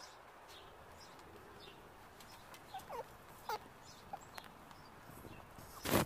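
Quiet outdoor background with a few short, faint downward-sliding chirps and small clicks around the middle, and one sharp click near the end.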